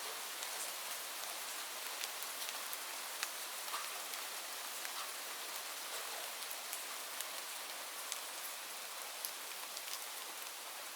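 Steady rain falling, a continuous hiss with many scattered sharp drops striking a surface close by.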